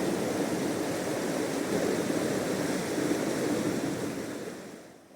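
Rushing water of a fast mountain river, a steady noisy rush that fades away near the end.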